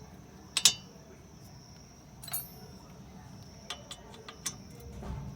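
Sharp metallic clicks and clinks of the caliper bolts and tools against the brake caliper as its fixing bolts are fitted: a double clink about half a second in, a ringing one a little after two seconds, then a few light ticks. A steady high thin tone runs underneath.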